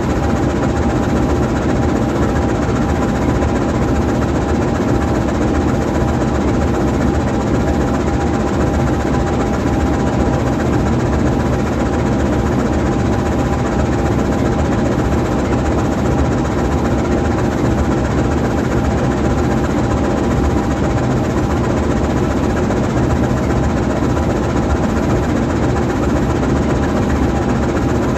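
GE U20C diesel-electric locomotive's V12 diesel engine idling steadily while the locomotive stands still.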